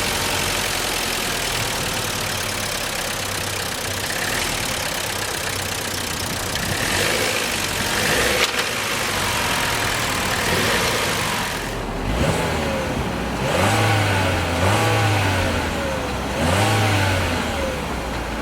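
2020 Chevrolet Trax's 1.4-litre turbocharged four-cylinder engine idling steadily, then blipped up and back down about four times in quick succession from about twelve seconds in.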